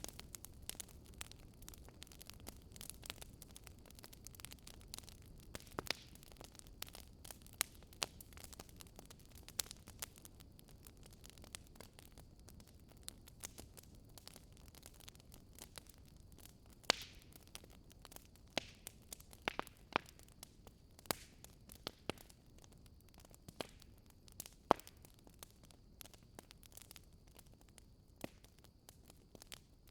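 Campfire crackling: wood popping and snapping in irregular sharp clicks over a soft steady hiss of burning, with a few louder pops in the second half.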